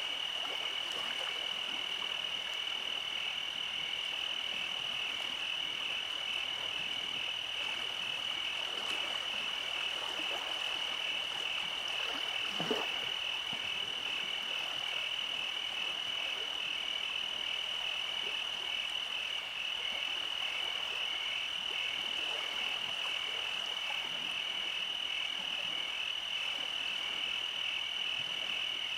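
Night chorus of frogs trilling steadily: one continuous high trill over a lower, pulsing one. A single soft knock stands out about 13 seconds in.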